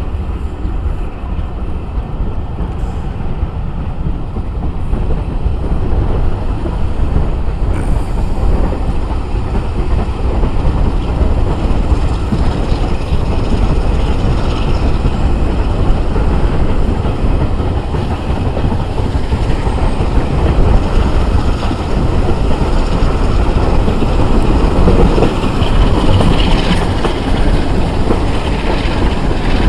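Diesel-hauled passenger train running along the line, heard from an open carriage window: a steady rumble of the coaches' wheels on the track, getting louder after the first several seconds.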